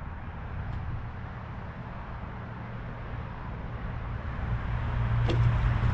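An engine running steadily with a low hum that grows louder toward the end, and a single short click about five seconds in.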